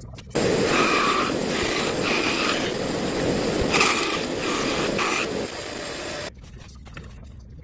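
A loud power tool running for about six seconds, starting and stopping abruptly, with a higher whining tone that comes and goes several times.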